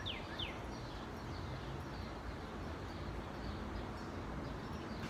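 Outdoor ambience: a songbird repeats quick down-slurred whistled notes, about three a second, stopping about half a second in. After that comes a steady low background hum with a few faint chirps.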